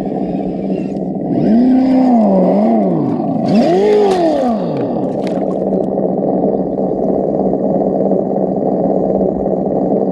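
Radio-controlled Vaterra Ascender 4x4 scale trail truck driving, its motor and ESS-One engine sound unit revving up and down twice, then running steadily. A short hissing burst comes about four seconds in.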